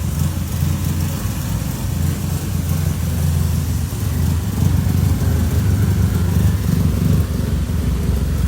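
A car engine running at a steady idle, a low, pulsing rumble.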